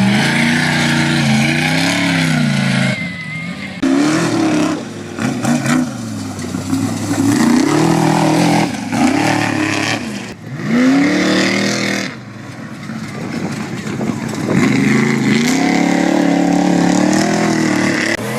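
Off-road race truck engines revving hard, their pitch climbing and falling again and again as the trucks throttle and shift, with one truck after another going by.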